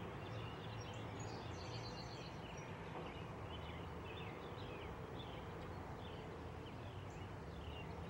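Songbirds chirping and twittering over a steady low outdoor rumble, with a quick high trill about a second and a half in.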